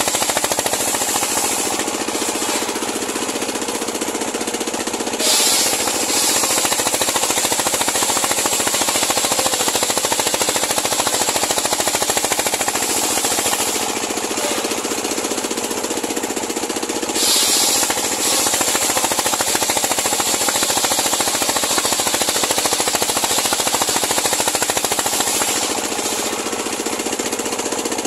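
Homemade circular sawmill running steadily, its engine firing in a fast, even rattle as the blade saws a large pule log. Brief, louder, high-pitched surges come about every twelve seconds.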